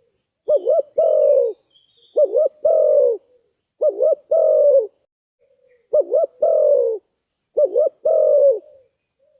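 Spotted dove (tekukur) cooing. It repeats its phrase five times, about once every second and a half: two short quick coos, then a longer coo that falls in pitch.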